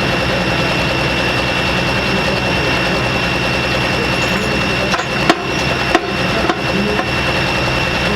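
Super Pro Farm pulling tractor's turbocharged diesel engine running steadily at high revs, with a steady high whine on top. A few sharp cracks and brief dropouts come about two thirds of the way through.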